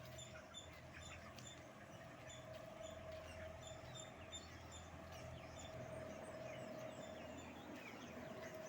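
Many chickens in a poultry house peeping and chirping faintly over a steady machine hum.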